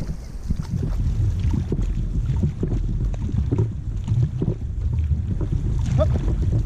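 Wind buffeting the microphone with the repeated splashes of paddles dipping and pulling through the water as a four-person racing canoe is paddled.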